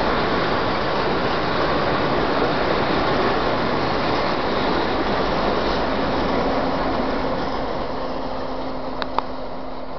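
Freight train of tank wagons passing close by: a steady rumble and rattle of steel wheels on the rails that begins to fade over the last few seconds. A low steady hum comes in about halfway through, and two sharp clicks sound close together near the end.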